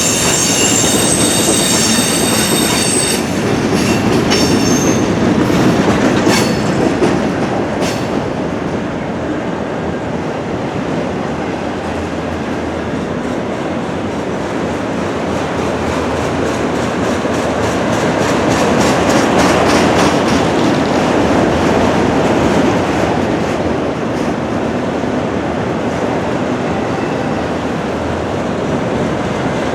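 Freight cars of a Norfolk Southern train rolling past, a steady heavy rumble. The wheels squeal high-pitched for the first three seconds, then click and clatter over the rail joints and crossover in runs of rhythmic clicks.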